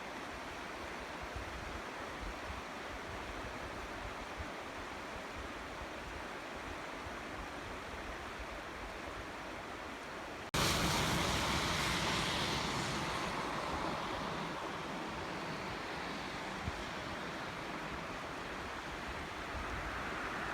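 Steady rushing of water. It cuts to a louder, brighter rush about halfway through, which then slowly eases off.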